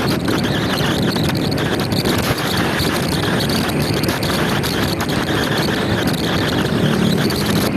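Motor scooter running on the road, its engine hum under loud wind buffeting the microphone.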